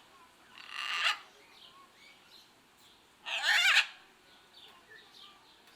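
Parrot giving two harsh squawks, about a second in and again about three and a half seconds in, with soft short chirps between them.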